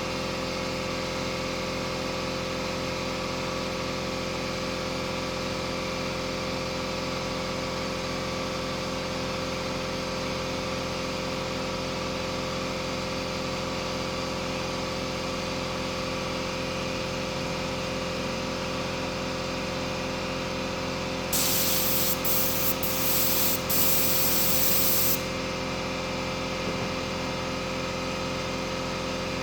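A steady mechanical hum, with a spray hissing for about four seconds near the end, broken by a few short stops.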